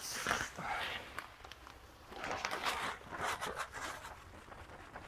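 Scattered scraping and crunching of gritty soil substrate (calcine clay, perlite and topsoil) being mixed and shifted, in a short cluster at the start and again from about two seconds in.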